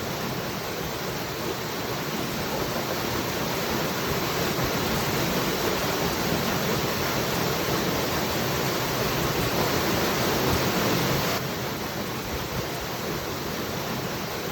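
Waterfall, a steady, dense rush of falling water with no distinct splashes. It swells slightly, then drops back abruptly about eleven seconds in.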